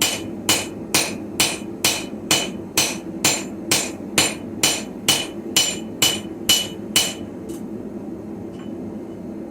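Hammer blows on a Viking-style anvil, forging a sickle blade: about two ringing strikes a second, stopping about seven seconds in.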